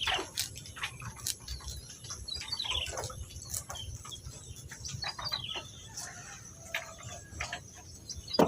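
Birds chirping in short, repeated calls, some sweeping downward in pitch, with scattered light clicks.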